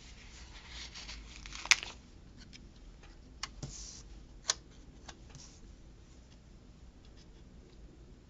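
Paper sticker sheets and planner pages being handled: faint rustling with a few sharp clicks, the loudest about two seconds in.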